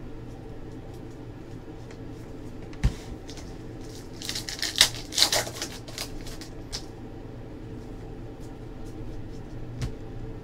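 Trading cards and a foil pack wrapper being handled on a table: a single knock about three seconds in, then a short flurry of crinkling and rustling over a steady room hum.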